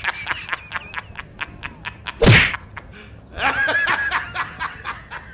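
Edited-in whack sound effects: a run of quick sharp taps, then one loud swishing smack about two seconds in, followed by a high, pitched squeaky sound with more taps.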